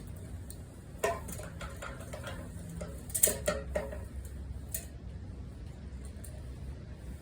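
Handling noises of small hard parts: a few light clicks and clinks about a second in, then a louder cluster of clinks about three seconds in.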